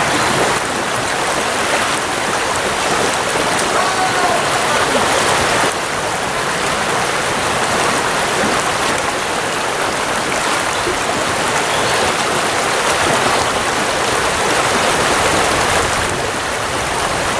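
Fast river water rushing steadily over a riffle: a loud, even rushing noise.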